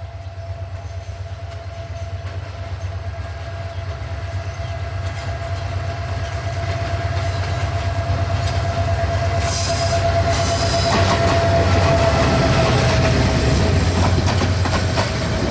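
Diesel locomotive hauling a passenger train, approaching and passing close by: a steady engine rumble and whine grow louder, and the whine dips slightly in pitch as the locomotive goes past. Two short hisses come about ten seconds in, then the wheels clatter over the rail joints as the coaches roll by.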